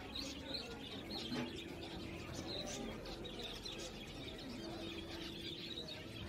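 Background birds chirping, with a low steady cooing in two stretches, about a second in and again near the end.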